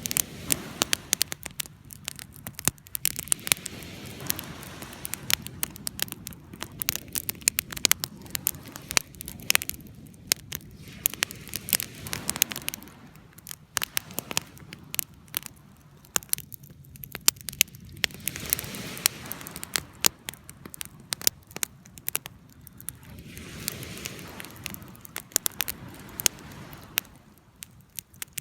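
Wood fire burning with frequent sharp crackles and pops over a low rush of flames that swells and eases every few seconds.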